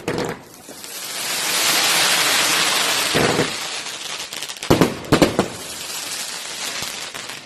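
A firework going off: a steady, loud hiss that swells over the first two seconds. Sharp crackles and pops break through it about three seconds in and again around five seconds in.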